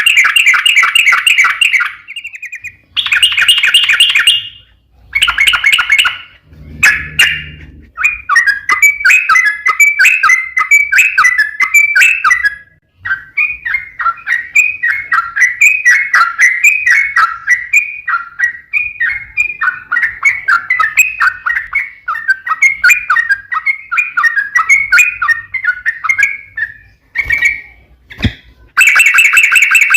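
Yellow-vented bulbul (trucukan) singing a long, fast, chattering song. A few separate loud bursts come first, then an almost unbroken run of quick notes for most of the time, and another burst near the end.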